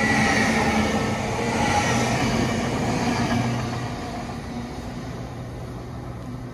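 GWR Hitachi intercity express train passing a station platform: steady wheel-on-rail noise with a whine and a low hum, fading from about halfway through as the rear cab goes by and the train draws away.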